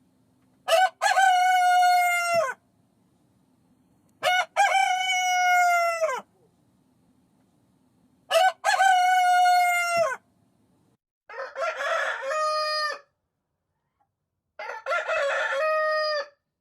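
Rooster crowing five times, each crow a drawn-out cock-a-doodle-doo about two seconds long. The last two crows are rougher and slightly lower.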